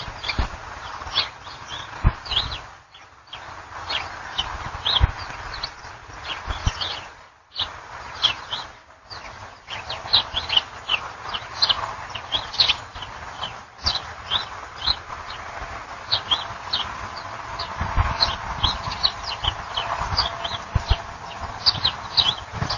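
Small birds chirping, many short high calls, often several a second, over a low irregular rumble and steady outdoor hiss.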